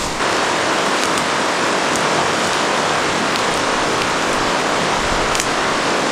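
Steady rush of water from river rapids, an even hiss with no let-up, starting abruptly right at the beginning.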